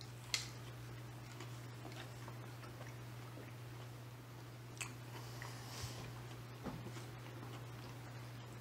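Faint chewing of bites of chicken sandwich on soft buns, with a few soft mouth clicks, over a steady low hum.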